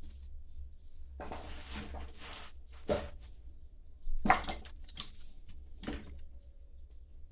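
Split, dry oak firewood logs being handled and set onto a stack: a rustling scrape of wood on wood, then four sharp knocks as logs drop into place, the second the loudest.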